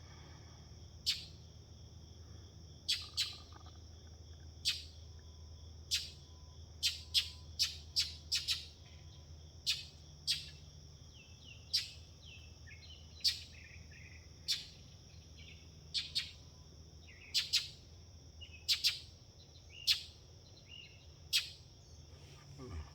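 Small songbirds chirping: short, sharp single chirps every second or so at irregular intervals, over a steady high-pitched drone and a low steady hum.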